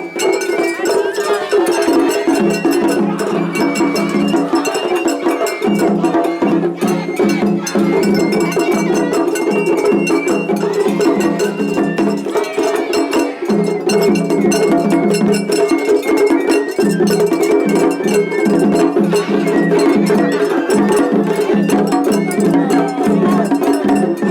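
Japanese festival hayashi from the floats played loud and continuously: dense drumming with a clanging hand gong and a high bamboo flute melody. Two floats' bands play against each other at once in a seriai, so the music is a clashing tangle of rhythms.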